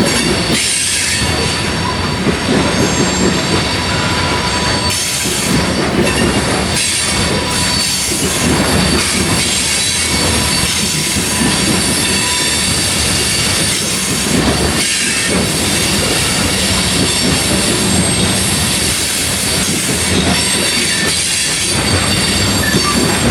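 Grain train's freight cars rolling past at close range: a steady rumble of steel wheels on rail, with a thin high wheel squeal running through it.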